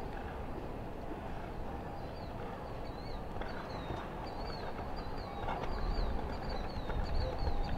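Small birds chirping, short falling chirps repeated several times a second from about two seconds in, over a steady low rumble of arena background noise.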